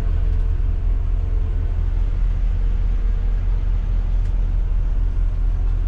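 Intercity coach's diesel engine running on the move, a steady low rumble.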